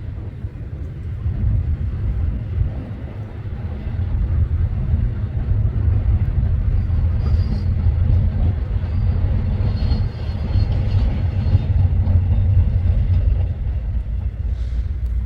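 Freight train passing with a steady low rumble that grows louder about four seconds in.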